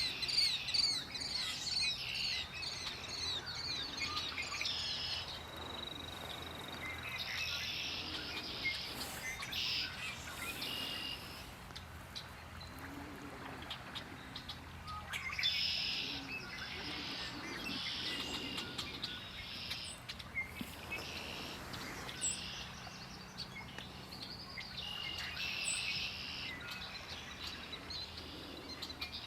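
Several songbirds singing with overlapping songs and calls. A quick run of repeated rising chirps fills the first few seconds, followed by scattered song phrases and calls.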